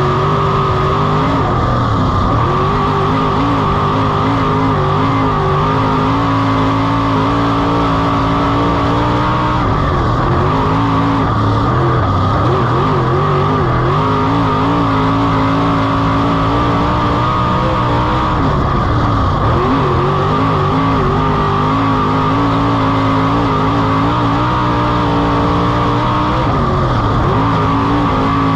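Race car engine running hard at speed on a dirt oval. Its pitch holds steady, then dips and climbs back several times as the throttle is lifted for the turns and opened again.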